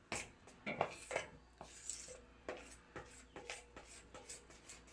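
A spoon clinking and scraping against a mixing bowl in irregular short taps, as a little more flour is worked into the batter.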